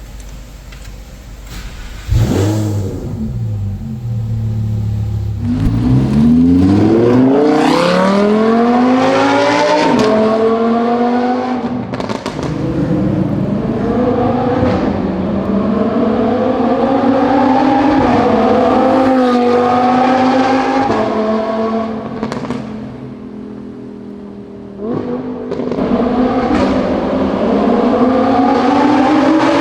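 Lamborghini Huracán LP610-4's naturally aspirated V10 engine and exhaust. It rumbles low, jumps louder about two seconds in, then accelerates hard from about five seconds, its pitch rising through the gears with quick drops at each upshift. It eases off a few seconds before the end, then accelerates again.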